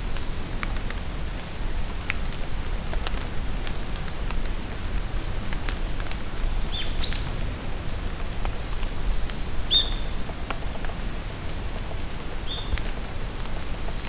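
Steady rain falling in a forest, with drops pattering and ticking. Over it, songbirds give a handful of short chirps and calls, most in the middle of the stretch and one near the end.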